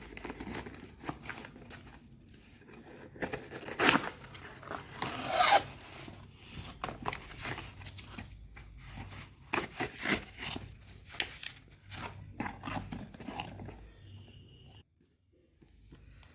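Packaging being handled and opened by hand: a run of rustles, scrapes and clicks, with a sharp knock about four seconds in and a longer rasping, tearing sound about a second later.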